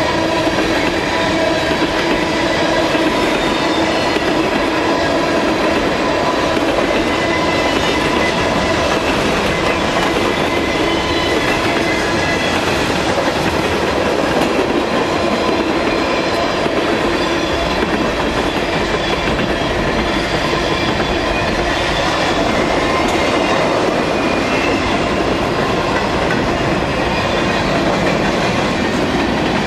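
Freight cars of a long mixed freight train (tank cars, a centerbeam flatcar, boxcars and covered hoppers) rolling past close by. Their wheels make a steady, loud rumble and clatter on the rails, with a thin steady whine on top.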